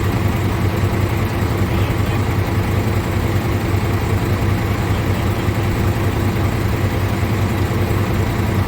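Scania R450 tractor unit's 13-litre straight-six diesel engine idling steadily.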